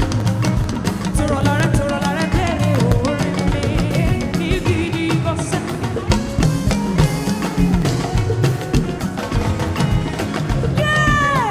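Live gospel praise band playing an upbeat, drum-driven groove with bass and keyboard; near the end a voice or lead line comes in with a long falling glide.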